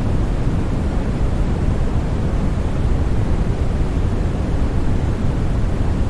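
Steady sleep-aid noise, a constant rushing hiss with most of its weight in the deep low end, unchanging throughout.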